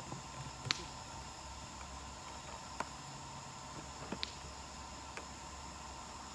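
Wood campfire crackling: a few sharp, irregular pops over a soft steady hiss.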